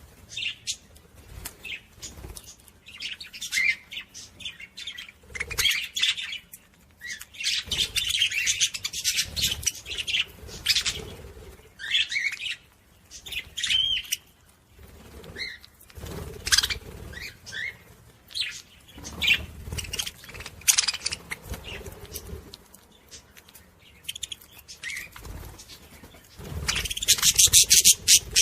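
Small pet parrots chirping and chattering, with wing flutters and small clicks among them. A louder, dense run of rapid high chatter comes near the end.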